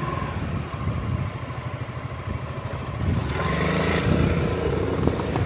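Engine of a passing motor vehicle running, growing louder about three seconds in.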